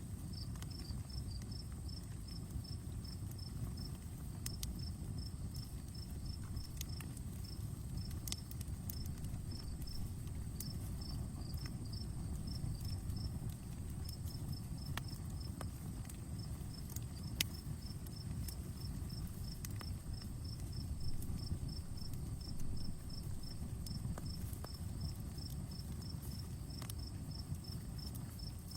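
Outdoor campfire crackling, with scattered sharp pops over a steady low rush. Insects chirp throughout in a fast, even high-pitched rhythm.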